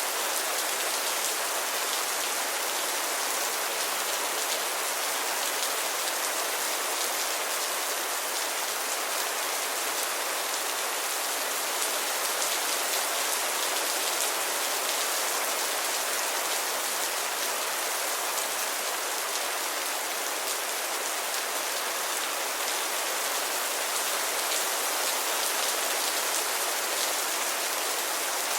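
Steady, continuous rainfall: an even hiss of many raindrops hitting a surface, with fine individual drop patters through it.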